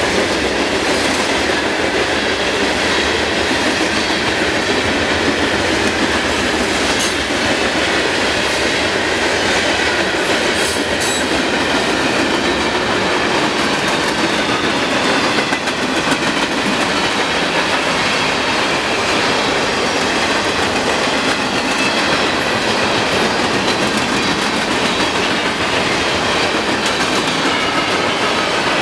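CSX freight train's railcars rolling past, a steady loud rumble of steel wheels on rail with rhythmic clatter as the wheels cross the rail joints and a few sharp clanks.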